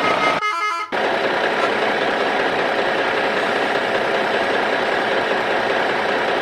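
An engine running steadily, with a brief drop-out about half a second in.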